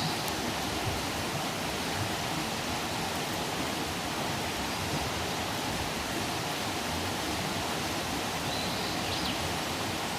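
Campfire burning with a steady hissing rush and a few faint pops.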